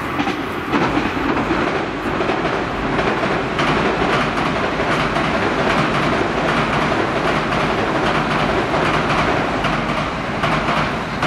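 Electric commuter train running across a steel girder railway bridge: a loud, sustained rumble with a continual clatter of wheels over rail joints.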